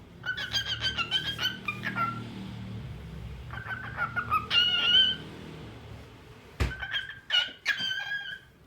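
Cockatiel whistling and singing: a quick run of chirps, then short whistled phrases in bursts. A single sharp knock comes about two-thirds of the way through.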